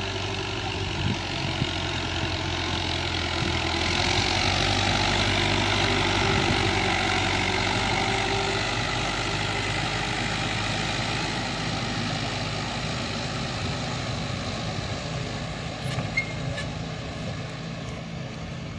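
Tractor engine running steadily, growing louder around four to six seconds in and then easing off slowly.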